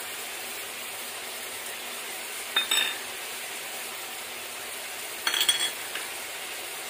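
Chicken sizzling in mustard oil in a kadai, a steady frying hiss, with two short bursts of metal clinking about two and a half and five seconds in.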